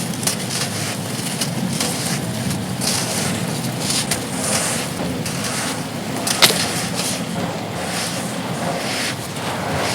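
Dried sand clay crumbling and crunching, mixed with wind buffeting the microphone; one sharp snap about six and a half seconds in.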